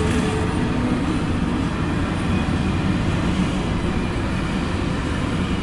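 CSX intermodal freight train passing close by: a steady loud rumble of the train rolling on the rails.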